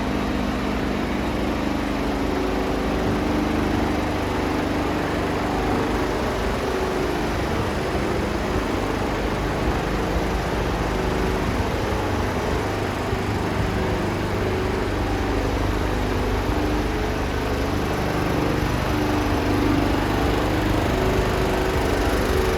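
Mercedes Actros 2551 tractor unit's 510 bhp Euro 6 diesel engine idling steadily.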